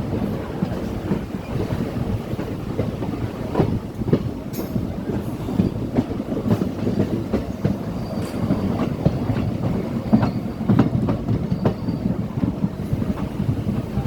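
DEMU (diesel-electric multiple unit) passenger train running along the track, its wheels clattering over the rail joints in a steady run of knocks.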